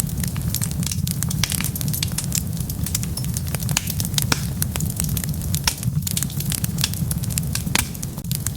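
Wood fire crackling steadily, with dense irregular pops and a few louder snaps, over a constant low rumble.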